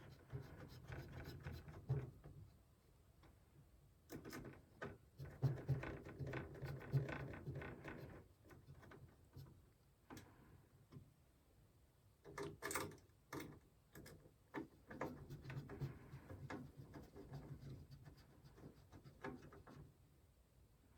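Hands fitting parts into a PC case: irregular small clicks, taps and short rattles, with a sharper knock about two thirds of the way through.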